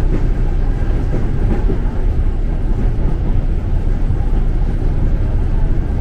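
Inside a former JR East 205 series electric commuter train in motion: steady low wheel and rail running noise.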